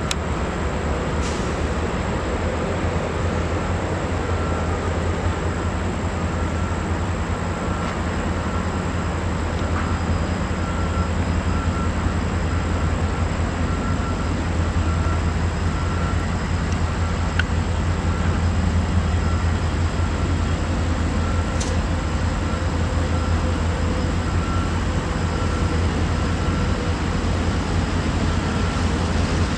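Train rolling past at close range: a steady, loud low rumble of wheels on rail that holds without a break.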